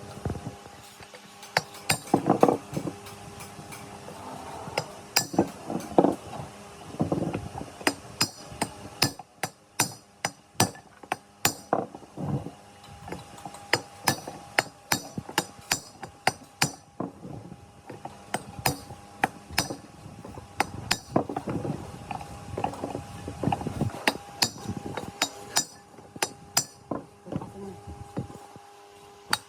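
Hammer tapping on metal parts: a long, irregular series of sharp metallic taps, sometimes several in quick succession, some with a brief ring.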